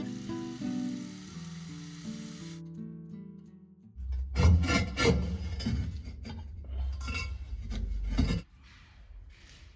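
Soft instrumental music with held, plucked-sounding notes fading away over the first few seconds. Then comes an abrupt change to loud, rhythmic rubbing and scraping with a heavy low rumble, lasting about four seconds and cutting off sharply near the end.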